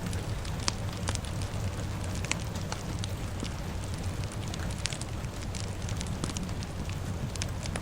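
Fire crackling, with frequent irregular sharp pops over a steady low rumble, mixed with the even hiss of rain.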